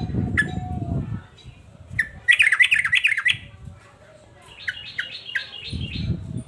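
Male yellow-vented bulbul (trucukan) singing in an agitated state: a loud rapid run of about six chirping notes about two seconds in, then a fainter series of short notes a little later. A low rough sound with a held tone is heard in the first second and again near the end.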